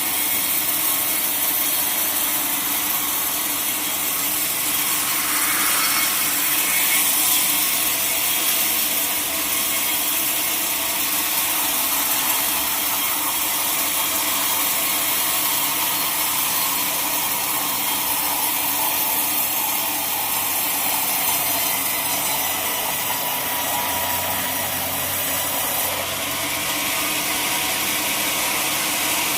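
Sawmill saw cutting steadily through a large log, a continuous loud noise.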